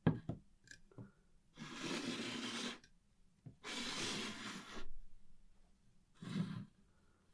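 A click, then two scraping or rubbing strokes about a second each and a shorter third one near the end, like hand work on a surface.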